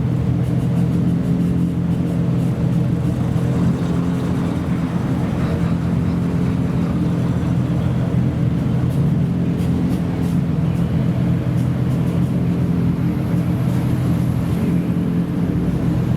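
Modified car engine idling steadily at one low, even pitch.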